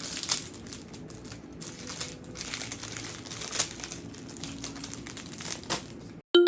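Cellophane flower wrapping crinkling and rustling in irregular crackles as a bouquet is handled, cutting off abruptly about six seconds in.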